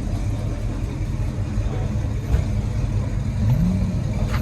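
Car engine running with a steady low rumble, its revs rising briefly about three and a half seconds in. A sharp click near the end.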